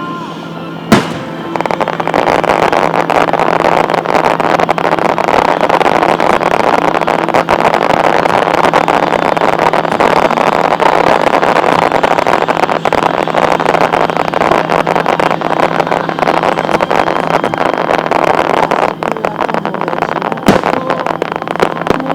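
Fireworks display: a sharp bang about a second in, then a long, dense stretch of crackling from many small bursts that fades near the end, where another bang sounds.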